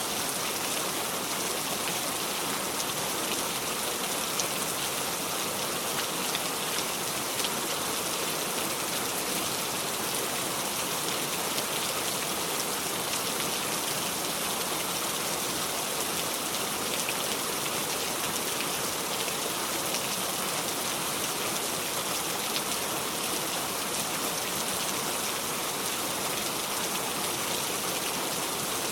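Steady heavy rain falling without thunder: an even hiss of rain with fine scattered drop ticks.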